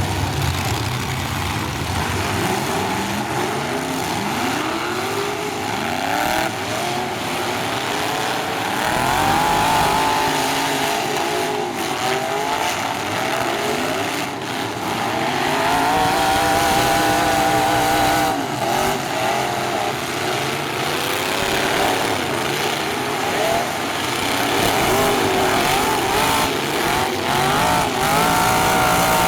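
Several full-size demolition derby pickup trucks' engines revving hard at once, their pitches climbing and falling over one another, with a few short crashes of collisions.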